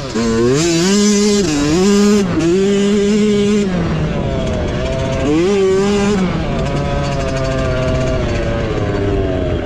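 Mini bike's small engine under racing throttle, its revs dipping and climbing again several times in quick succession, then running lower and steadier from about four seconds in and easing off near the end.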